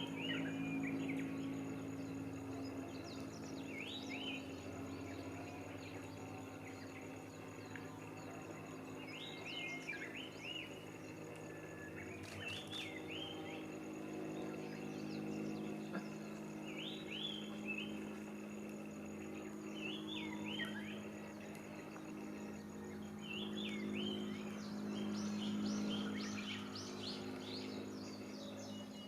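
Small songbirds singing in short phrases of quick, hooked notes, repeated every few seconds, over a steady low hum.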